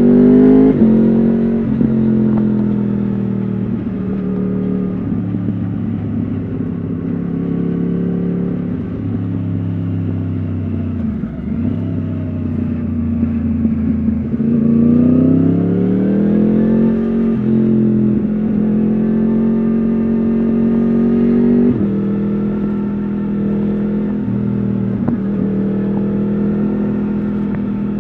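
Yamaha R1 RN22's crossplane inline-four engine through an Akrapovič exhaust, heard onboard while riding. It mostly holds steady revs, climbs briefly at the start, and about halfway through drops, then climbs steadily for a few seconds until a gear change breaks the rise.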